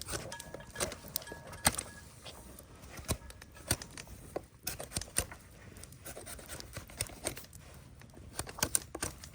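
Scattered clicks and knocks at uneven intervals, the sound of objects being handled and set down, with faint brief whistle-like tones in the first two seconds.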